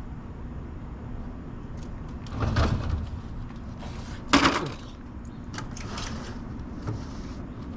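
A door sliding and banging, with clatters and knocks over a steady low rumble; the sharpest, loudest knock comes about four and a half seconds in.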